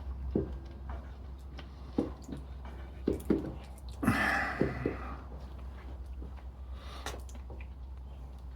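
Faint scattered clicks and taps of a small screwdriver and loose parts as the brush holder of an electric drill is worked open, with a brief rustling hiss about four seconds in, over a steady low hum.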